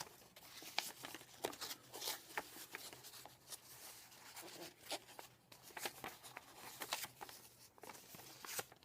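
Paper being folded and creased by hand as a paper airplane's tail is shaped: faint crinkling with light clicks, coming and going, over a faint steady hum.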